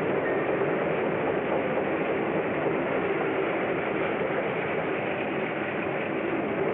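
Train running steadily along the rails, a continuous rumble and rattle.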